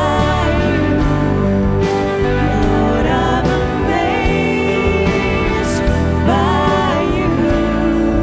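Contemporary worship band music, with a singer's voice coming in for a few short phrases.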